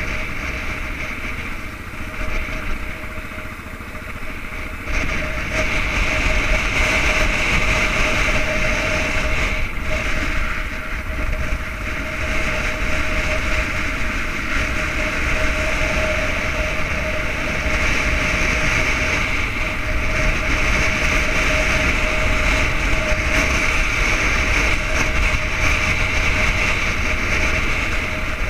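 Yamaha XTZ 600 Ténéré's single-cylinder four-stroke engine running steadily under way, with wind rushing past the helmet-mounted microphone. It gets louder about five seconds in.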